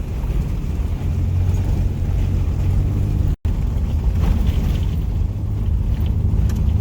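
Steady low rumble of a vehicle on the move, with road and wind noise. It drops out for an instant about halfway through.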